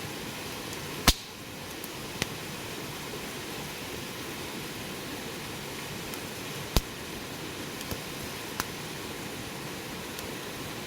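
A wood fire burning with a steady hiss and occasional sharp pops from the wood, the loudest about a second in and another near seven seconds.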